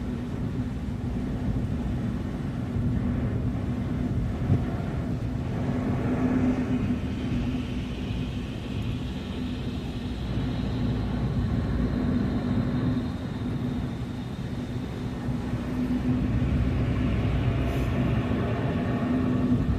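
Car driving, heard from inside the cabin: a steady low rumble of road and engine noise with a constant hum, and one short knock about four and a half seconds in.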